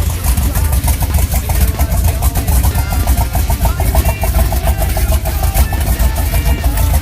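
Twin-turbo Fox-body Mustang engine idling with a choppy, pulsing beat.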